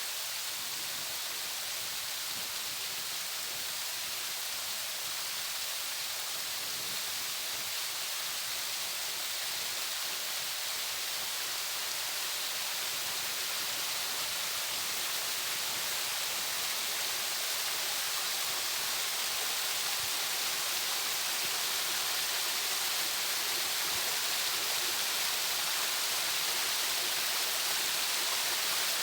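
Water cascading over rocks in a small waterfall: a steady rushing hiss that slowly grows a little louder.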